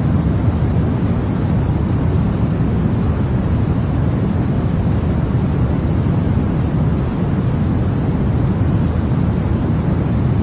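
Continuous sleep-aid white noise for babies: a steady, unchanging rush of noise, heavier in the deep range than in the highs.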